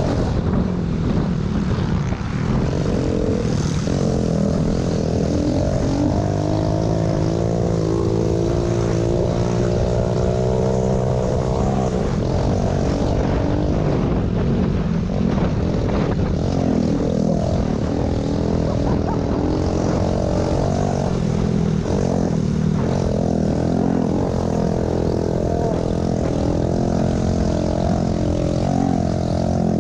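Small pit bike engine running hard under race throttle, its pitch rising and falling as it revs up and eases off.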